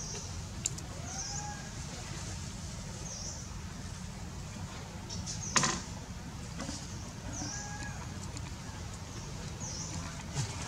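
A bird repeats a short high call about every two seconds over a steady low rumble. A single sharp knock comes a little past halfway.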